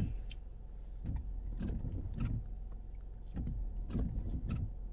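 A person chewing and biting into a breakfast burrito, with soft irregular mouth sounds, over a steady low hum inside a car.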